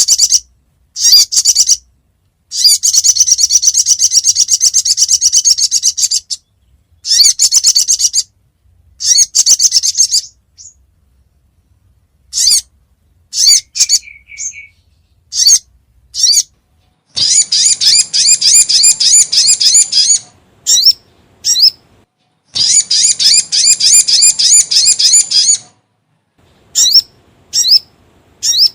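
Sogon (crimson sunbird) song: loud, high, rapid trilled phrases, three of them lasting about three seconds each, separated by short sharp chirps and brief pauses.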